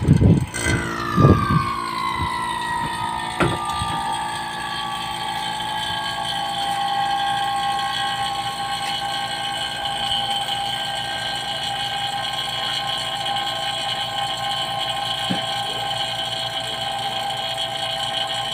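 A steady machine whine made of several high tones. It drops in pitch over the first couple of seconds, then holds level, with a few knocks near the start.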